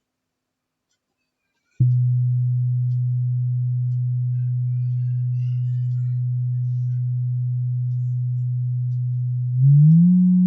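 Pure sine test tone from an online tone generator, played over a screen share for a hearing test of the low end of the audible range. A single steady low tone starts about two seconds in, then slides up to a slightly higher pitch near the end and holds.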